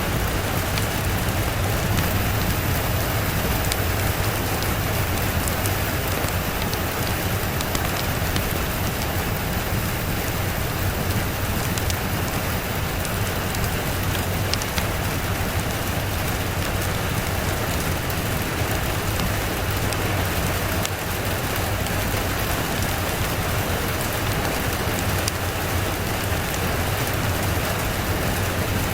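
Steady rain falling, with many fine drop ticks over a continuous hiss and a steady low rumble underneath.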